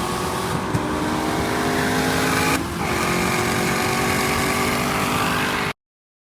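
Car engine at full throttle during a roll race, its pitch climbing steadily. About two and a half seconds in it dips briefly at a gear shift, then climbs again, until the sound cuts off abruptly near the end.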